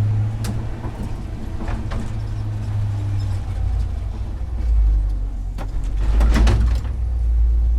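Low, steady drone of a vehicle being driven, heard from inside the cabin. The deep hum drops lower in pitch about halfway through.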